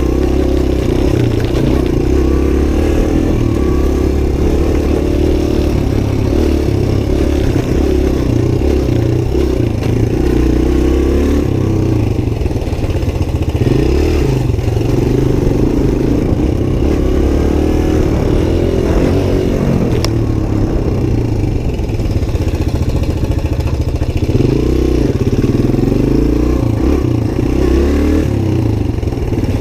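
Suzuki DR-Z125's single-cylinder four-stroke engine running under way, its pitch rising and falling as it revs up and eases off. A single sharp click cuts through about two-thirds of the way in.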